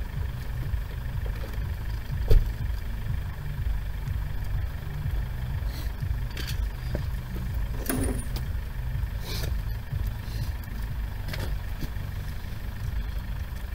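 A car engine idling steadily, with a few scattered clicks and knocks, the loudest about two seconds in.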